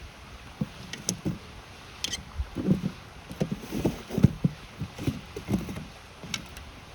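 Campfire crackling with a few sharp pops over the steady rush of a river, with an irregular run of low knocks and thuds through the middle.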